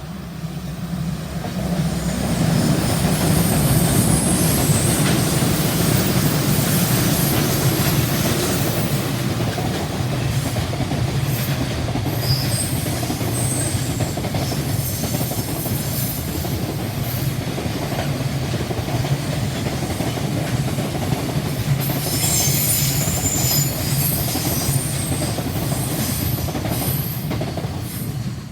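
A train passing close by on the JR Tokaido Main Line, its wheels clattering along the rails for nearly half a minute with brief high-pitched squeals now and then. The sound builds over the first two seconds and cuts off suddenly at the end.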